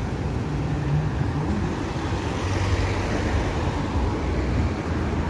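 Road traffic: a steady low vehicle rumble, with a brief low engine tone early on and the noise swelling around the middle as a vehicle goes by.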